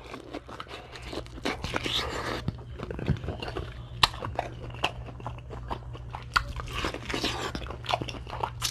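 Close-miked eating from a seafood boil: biting and chewing with crunching and many sharp clicks and crackles, over a steady low hum.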